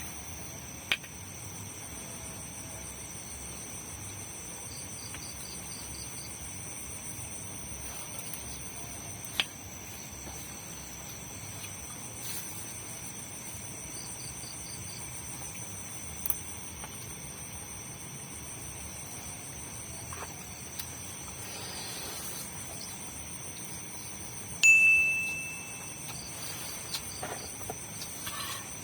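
Night insects such as crickets singing a steady, high-pitched chorus, with a few short chirp trains. A few sharp clicks break in, and near the end one short, bright ringing tone sounds and fades.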